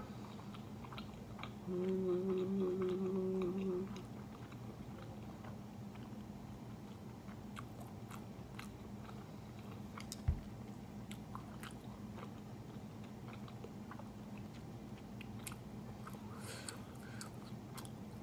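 Close-mouthed chewing of Jjapaghetti noodles, soft wet clicks of mastication. About two seconds in, a held 'mmm' hum of enjoyment lasts about two seconds, and a single low thump comes about ten seconds in.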